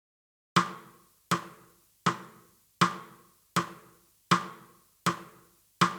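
Count-in of eight sharp percussive clicks, like a wood block or drumstick click, evenly spaced at 80 beats a minute: two bars counting in a jazz backing track. Each click dies away quickly.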